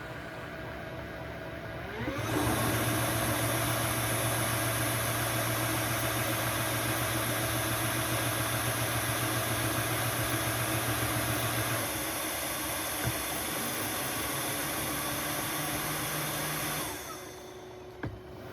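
Narwal S30 wet-dry stick vacuum in its base station during its self-cleaning wash. The motor spins up with a rising whine about two seconds in and runs loudly and steadily. Its low hum changes tone about halfway through, and it winds down a second or so before the end, followed by a click.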